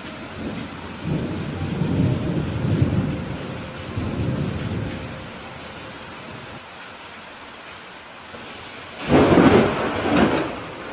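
Steady rain with a low rolling thunder rumble through the first half, then a loud, sharp thunderclap about nine seconds in, with a second crack a second later.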